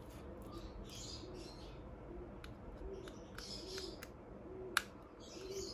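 A bird cooing in the background: a run of soft, low, rounded coos repeating about once a second. A few faint clicks, the sharpest near the end.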